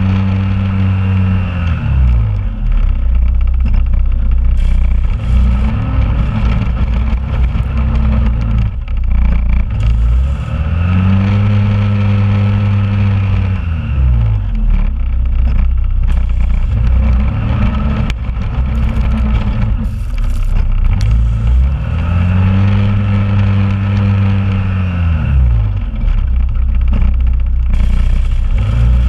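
2001 Honda Rubicon ATV engine running under load while plowing snow, its speed rising, holding and falling back three times as it pushes and backs up between passes.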